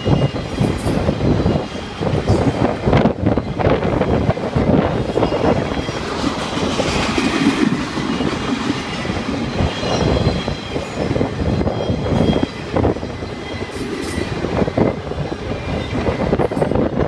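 Enclosed autorack freight cars rolling past: a steady rumble and clatter of steel wheels on the rails, with a faint high squeal of wheels now and then.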